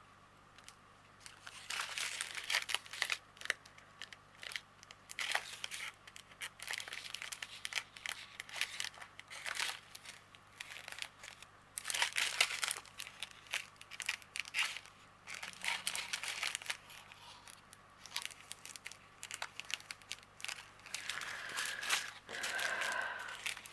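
Small plastic packets of diamond painting drills crinkling and rustling as they are handled and sorted, in irregular bursts starting about a second and a half in.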